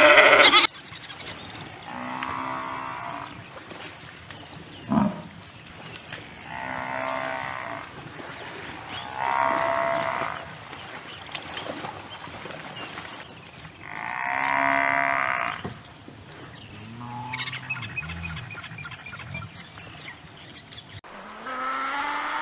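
Bison bellowing: about five drawn-out calls of one to two seconds each, a few seconds apart, the last one lower and grunting. A goat's bleat cuts off at the very start, and a donkey's bray begins near the end.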